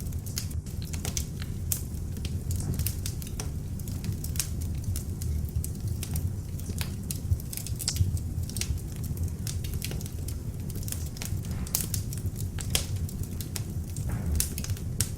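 Beech-wood log fire burning in an open fireplace: a steady low rumble of flames with frequent irregular crackles and pops.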